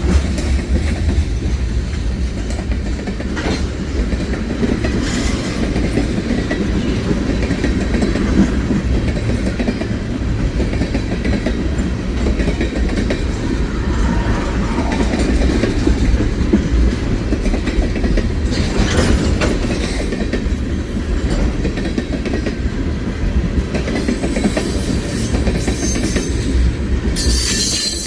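Freight train rolling past, its wheels clacking over rail joints with a steady low rumble. A high-pitched wheel squeal rises over it near the end.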